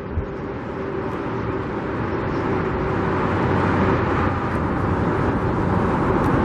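Steady road traffic noise from a nearby freeway, swelling gradually.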